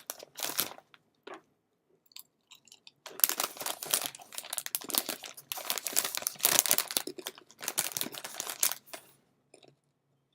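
Someone chewing crisp cassava chips. A few short crunches come first, then steady irregular crunching for several seconds, which stops near the end.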